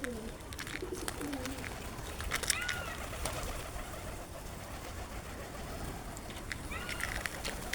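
Birds calling: short arched chirps about three seconds in and again near the end, with a lower falling call at the very start, over steady low background noise.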